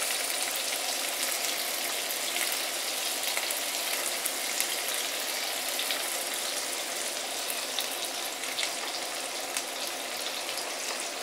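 Pressed tofu chunks frying in hot oil in a non-stick wok: a steady sizzling hiss dotted with small pops and crackles, the water inside the tofu making the oil spatter. The sizzle eases slightly toward the end.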